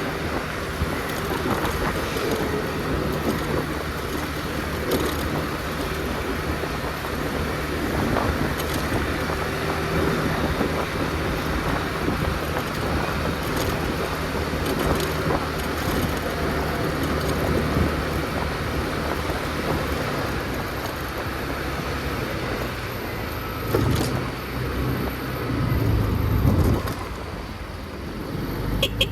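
Motor scooter riding through city traffic: a steady engine hum with road and tyre noise. A louder low rumble swells twice near the end.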